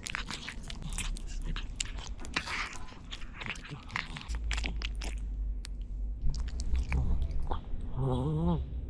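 Cats crunching and chewing food, a rapid run of short crisp crunches, with a short wavering call near the end.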